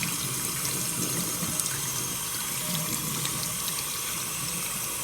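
Tap water running steadily and splashing over a shoe held under the faucet, in a test of whether its waterproofing keeps the water out.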